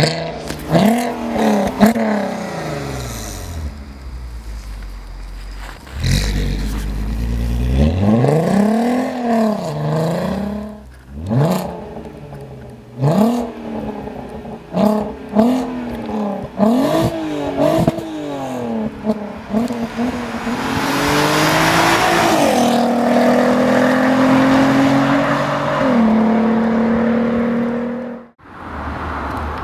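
Volkswagen R32's 3.2-litre VR6 through an aftermarket Milltek exhaust, revved in a series of throttle blips, the pitch rising and falling each time. Later the revs are held steady for several seconds, stepping down twice before cutting off suddenly near the end.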